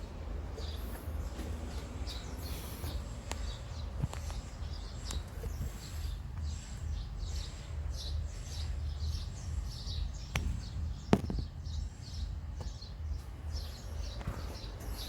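Small birds chirping repeatedly over a steady low rumble, with a sharp click about eleven seconds in.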